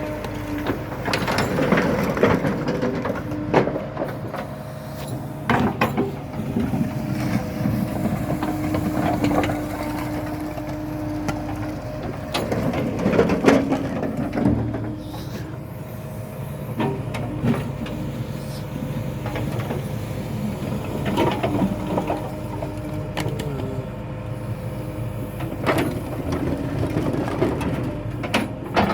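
Tractor engine running steadily, with repeated irregular knocks and rattles over it.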